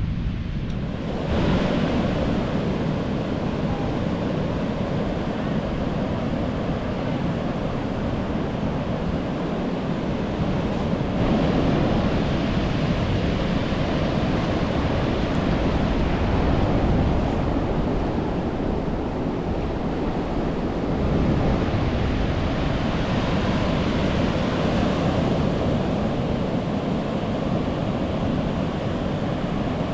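Ocean surf breaking on a beach, a steady rushing noise that swells a few times as waves come in, with wind buffeting the microphone.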